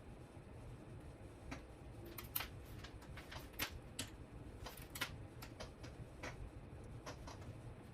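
Light, irregular clicks and taps of small hard parts and tools being handled, about fifteen of them from a second and a half in until near the end, over a faint low hum.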